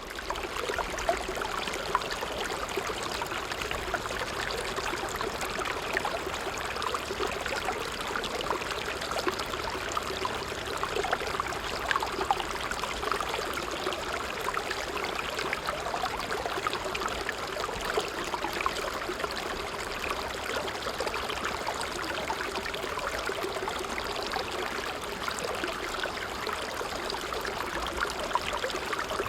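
A small stream running: a steady rush of water with many small trickles and splashes flickering through it.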